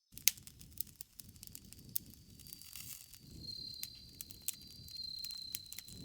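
Campfire crackling: irregular sharp pops and snaps over a low rumble of burning wood. A thin steady high tone comes in about halfway through.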